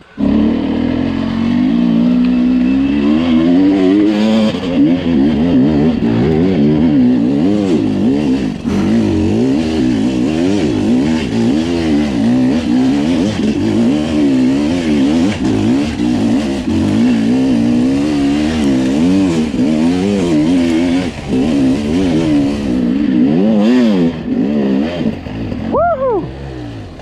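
Sherco two-stroke enduro motorcycle engine being ridden hard, its pitch rising and falling constantly with the throttle. Near the end there is one quick sharp rev.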